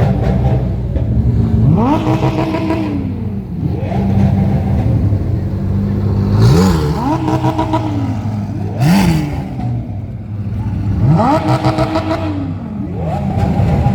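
A car engine idling and being revved repeatedly, about five blips a few seconds apart. Each rev climbs sharply in pitch and falls back to idle, and a couple are briefly held.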